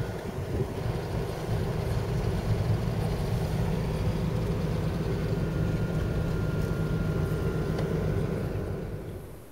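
Steady running noise of a motor vehicle: a low drone with a faint higher whine above it, fading out over the last second.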